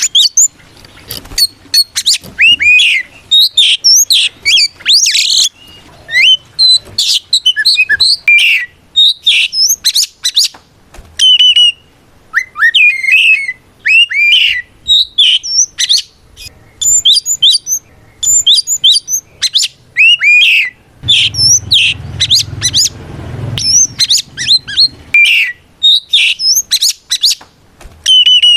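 Oriental magpie-robin singing loudly in rapid, varied whistled phrases full of sweeping notes: the full challenging 'ngeplong' song of a male calling out a rival. A low rumble runs underneath for a few seconds about two-thirds of the way through.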